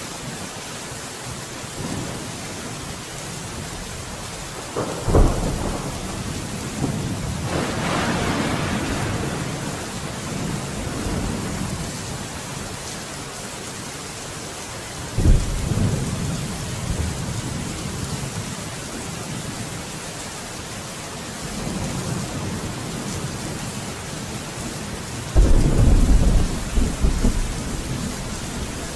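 Steady heavy rain with thunder: a sharp clap about five seconds in and another about fifteen seconds in, each rolling on afterwards, a rumble swelling in between, and a louder, longer rolling peal starting near the end.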